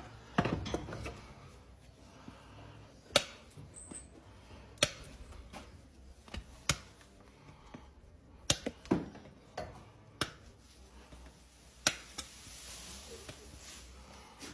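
Hand tools working a horse's hoof: a series of sharp clicks and snaps a second or two apart, with short scrapes between.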